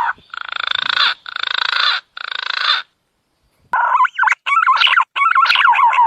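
Punai (green pigeon) calls played as a lure: three short buzzy, trilled phrases, a pause of about a second, then a run of wavering, gliding whistles.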